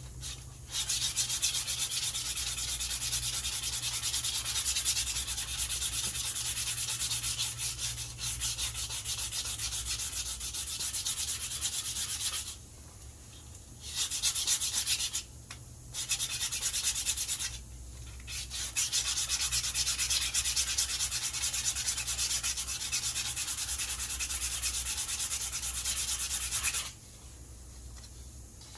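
100-grit sandpaper rubbing along a wooden walking stick in quick, continuous strokes. The sanding stops briefly three times around the middle and stops again near the end.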